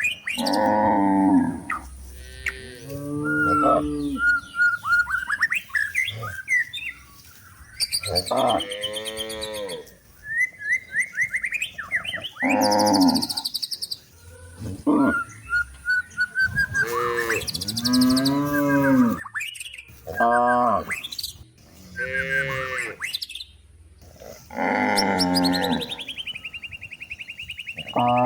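Cows mooing again and again, about ten calls, some drawn out, with birds chirping in short rising runs between them.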